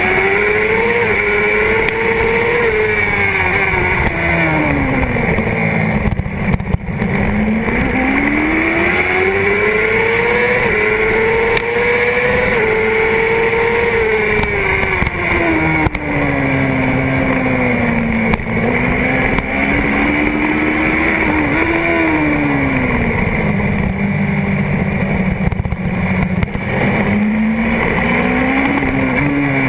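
Honda CBR600RR's inline-four sport-bike engine at racing speed. The revs climb and fall in long sweeps several times, with a brief break about six and a half seconds in.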